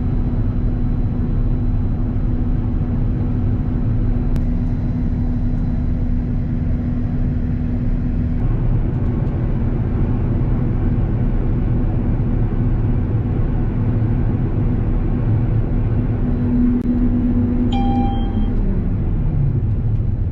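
Claas Lexion 760 combine harvester running steadily while harvesting: a loud, even low drone with a steady hum over it. Near the end there is a short electronic beep, and one tone slides down in pitch as a drive winds down.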